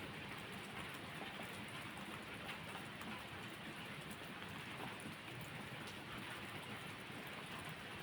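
Steady rain falling, with a few faint sharp ticks here and there.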